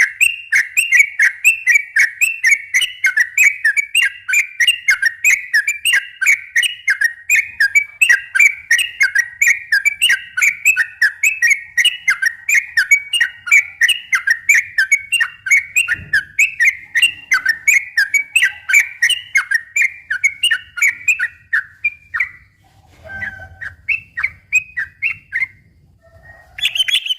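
Yellow-vented bulbul (trucukan) singing a long, fast run of short whistled notes, about three to four a second. The run breaks off about 22 seconds in, a few scattered notes follow, and a higher-pitched run starts near the end.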